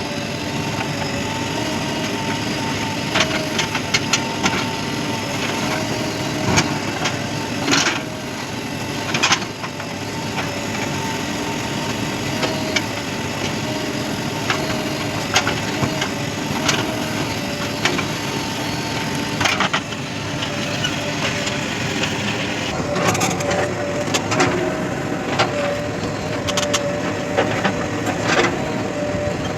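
JCB 3DX backhoe loader's diesel engine running steadily with a thin whine, while sharp knocks and cracks come at intervals as earth is worked and loaded.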